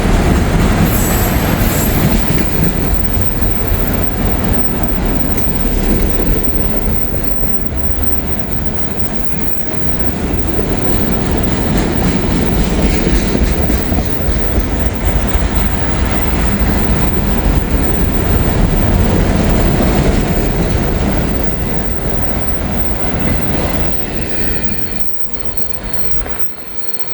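CSX freight train rolling past on the rails, its cars clattering by as it heads into a siding. The sound falls away sharply near the end as the train moves off.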